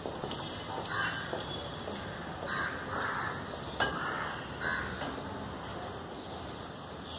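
A bird giving short, harsh calls about six times, over a steady background hiss.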